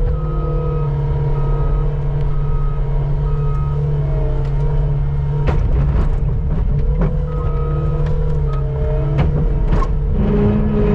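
Skid steer engine running steadily under load, its reversing alarm beeping in two runs as the machine backs up. A few sharp knocks punctuate it, the bucket working the pavement.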